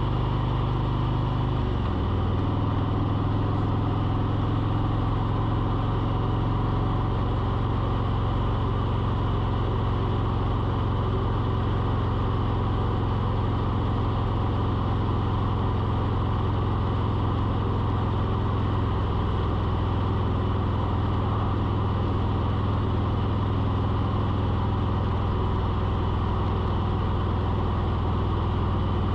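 An engine running steadily, a constant low hum whose pitch shifts slightly about two seconds in.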